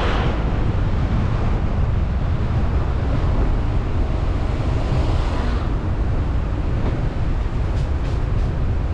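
Steady rumble of wind and road noise picked up by a car-mounted GoPro while driving, with a swell of rushing air at the start and another about five seconds in.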